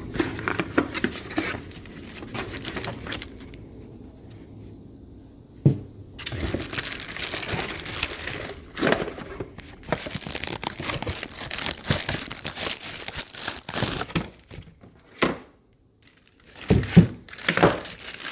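Cardboard box and plastic packaging being opened by hand: irregular crinkling, tearing and rustling with scattered knocks, pausing briefly twice.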